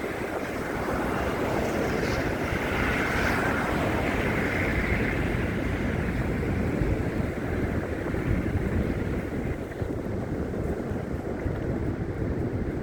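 Wind rushing and buffeting a phone's microphone in a snowstorm, a steady loud rumble and hiss.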